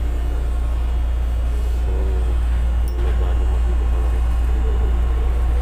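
Light-rail train running, heard from inside the car as a loud, steady low rumble.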